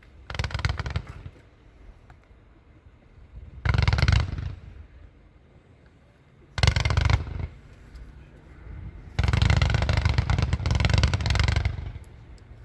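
Multi-shot consumer fireworks cake firing in four rapid volleys, the last and longest lasting about two and a half seconds, with short lulls between.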